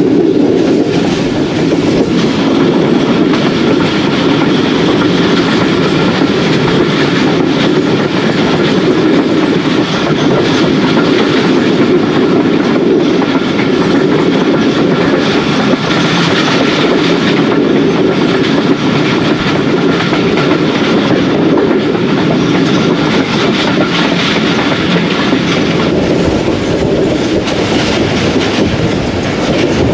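Passenger train behind a diesel-electric AGE30 locomotive running steadily along the line: a continuous rumble of the coaches with the clickety-clack of wheels passing over rail joints.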